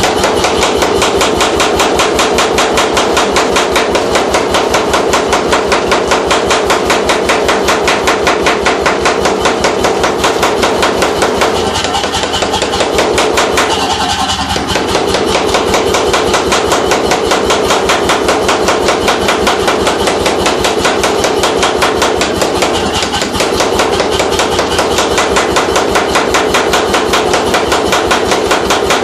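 C41 pneumatic forging hammer (air hammer) running continuously, its ram striking in a rapid, even rhythm of several blows a second.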